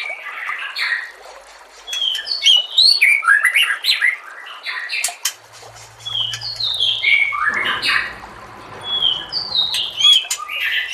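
White-rumped shama singing: quick bursts of loud, varied whistled and chirping phrases with short gaps between them. A low hum sits underneath from about halfway until near the end.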